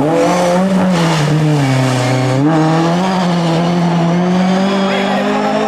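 Ford Escort rally car's engine revving hard as it slides through a hairpin and pulls away. The engine note sinks for about a second near the middle, then climbs again and holds high as the car accelerates.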